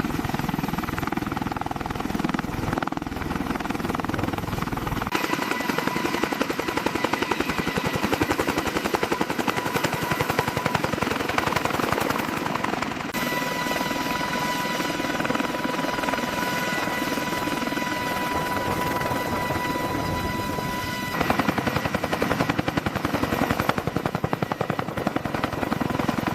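Helicopter running, its rotor beating in a fast steady rhythm, with a steady high turbine whine through the middle stretch. The sound changes abruptly three times.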